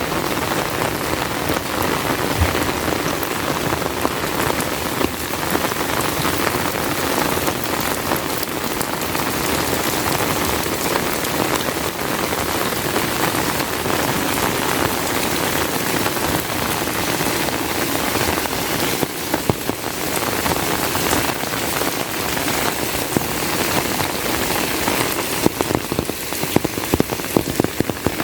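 Heavy rain falling steadily, a dense even patter, with a few louder sharp drop hits in the last few seconds.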